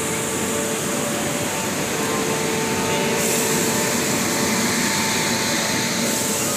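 Kolkata electric suburban local train at the platform, giving a loud, steady hum and hiss with a steady whine running through it.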